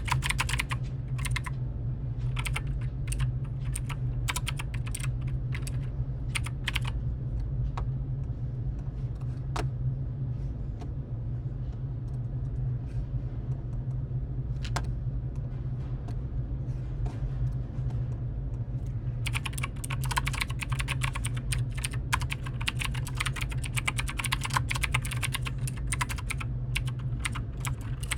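Computer keyboard typing in quick runs of key clicks, thinning to scattered single presses in the middle and picking up again in a long fast run for the last several seconds. A steady low hum runs underneath.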